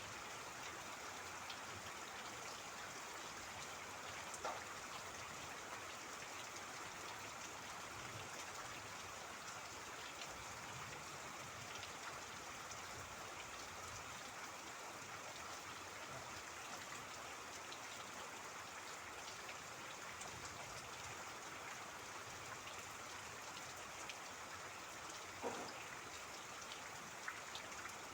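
Steady rain with trickling water, dotted with individual drips; two louder drips stand out, one about four seconds in and one near the end.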